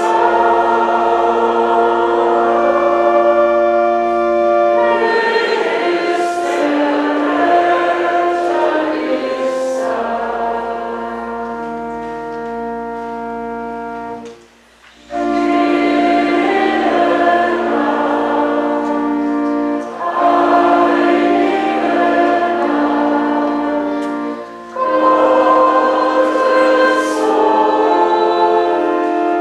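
Church choir singing a hymn in held chords over a sustained accompaniment with a low bass line. The music breaks off briefly about halfway through, then resumes, with two short breaths between phrases later on.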